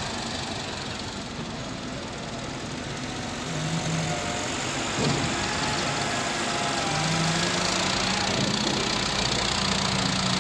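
Massey Ferguson 385 tractor's diesel engine running steadily, its note strengthening a few seconds in and again past the middle.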